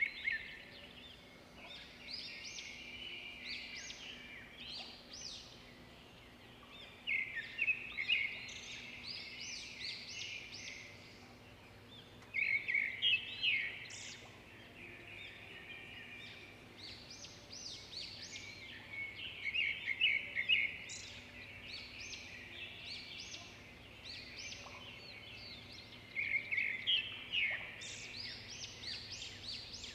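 Birds chirping and singing. A loud run of rapid chirps comes every five to seven seconds, with softer scattered chirps between, over a faint steady hum.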